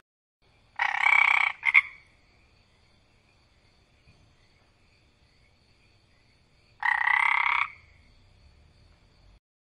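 Frog croaking: a harsh call lasting under a second about a second in, with a short one right after, and another call near the end. Faint steady high-pitched tones run in the background.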